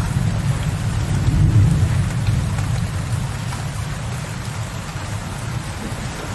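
Steady rain falling on a window ledge, with a low, distant thunder rumble that fades away over the first two or three seconds.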